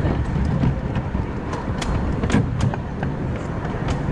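Miniature steam railway train running: a steady low rumble of the moving cars, with several sharp clicks of wheels over rail joints in the middle.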